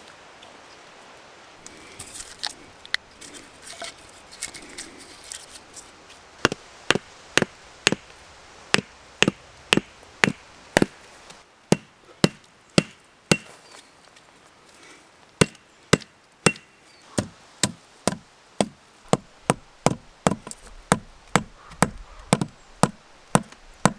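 Repeated sharp chopping strikes on wood, such as an axe or hatchet hitting a log: a few light knocks at first, then a steady run of about two blows a second with a short pause midway.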